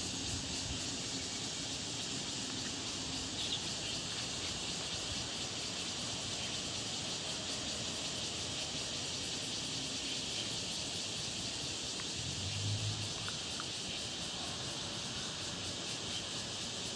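Steady outdoor background noise: a constant high hiss without a pattern, with a brief low hum about twelve seconds in.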